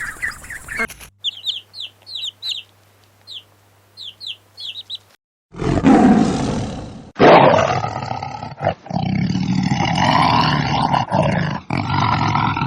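Animal calls in succession: a run of short, high chirps over a low steady hum, then after a short gap a harsh noisy burst and a long, loud pitched call lasting several seconds.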